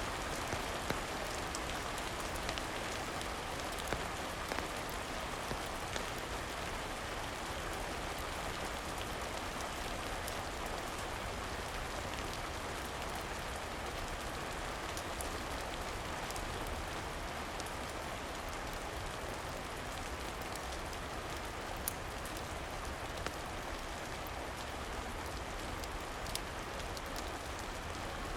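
Steady rain falling, with scattered sharp crackles from a wood fire a few seconds apart.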